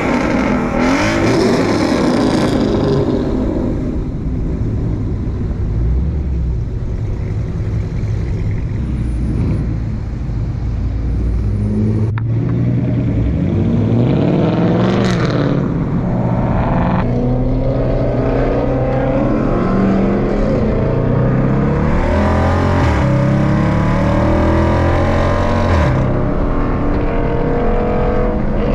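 Car engines revving and accelerating, the engine note rising and falling again and again, with the sound changing abruptly a few times.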